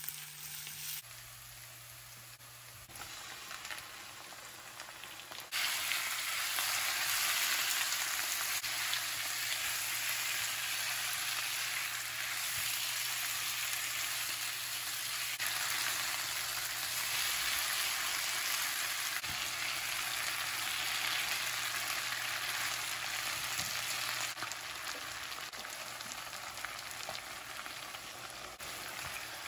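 Onions, curry leaves and green chillies frying in oil in a nonstick wok while being stirred with a silicone spatula; about five seconds in the sizzle turns much louder and stays strong as marinated chicken pieces fry in the pan, easing off somewhat near the end.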